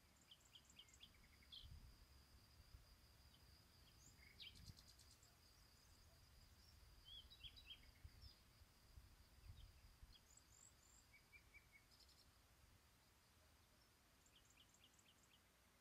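Faint birdsong: scattered short chirps and quick trills from small birds, over a thin steady high tone and a low background rumble.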